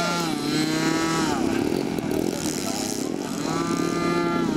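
Several small model-airplane engines running at high revs as RC planes taxi on the ground. Their pitch drops about a second in and again near the end as they pass or throttle back.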